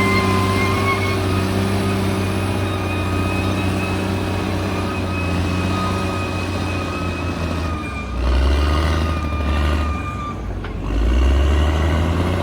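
Bulldozer's diesel engine running, its note steady at first. About eight and again about eleven seconds in, the note drops lower and grows louder. A faint high whine comes and goes over it.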